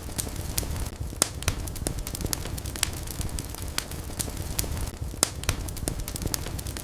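Wood fire burning in a fireplace, crackling with irregular sharp pops over a low, steady rumble of flame.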